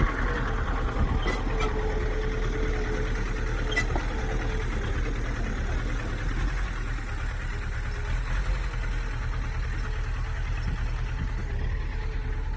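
A bulldozer's heavy diesel engine running steadily at low revs, with a couple of faint clicks in the first few seconds.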